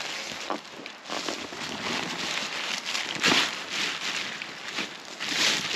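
Footsteps crunching and rustling through woodland leaf litter and undergrowth in irregular bursts, the loudest about three seconds in and near the end.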